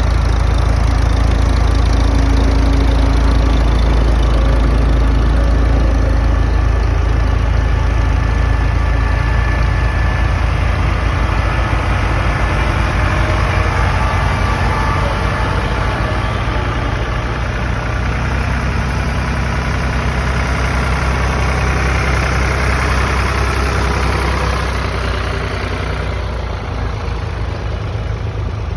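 Farm tractor engine running at a steady low speed, a deep rumbling note that eases a little near the end.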